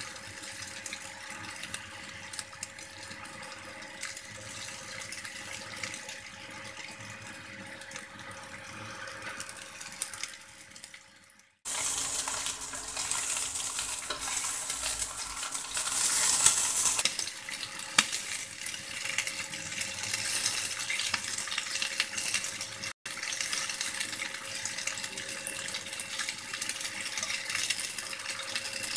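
Chicken wings sizzling as they fry in oil in a non-stick pan, with faint clicks of chopsticks turning them. The sizzle drops out abruptly a little before halfway and comes back louder and brighter.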